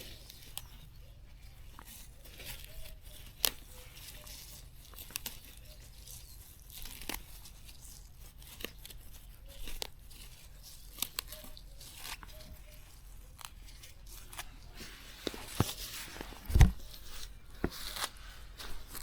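Plants being pulled and torn by hand: irregular snapping of stems and rustling leaves, with one heavy thump near the end.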